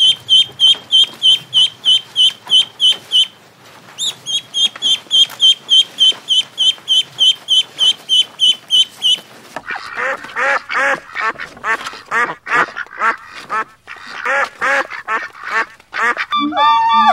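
Domestic ducklings peeping rapidly and evenly, about four high peeps a second, with a short break a few seconds in. After about ten seconds the peeping gives way to adult white domestic ducks quacking in irregular bunches.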